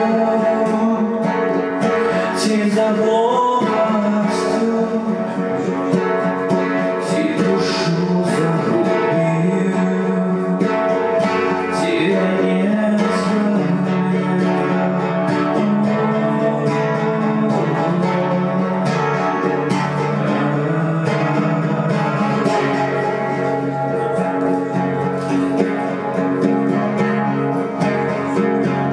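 Acoustic guitar strummed steadily, accompanying a sung folk melody, played live.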